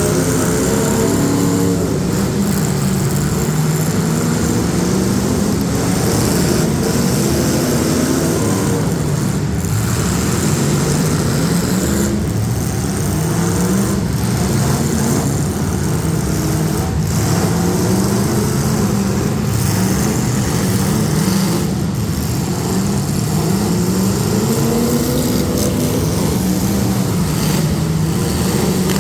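Several demolition derby street stock car engines running and revving at once, their pitches rising and falling.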